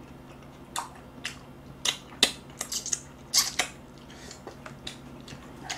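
Close-miked mouth sounds of someone eating braised monkfish (agujjim): irregular wet smacks and clicks of chewing, bunched several to a second at times.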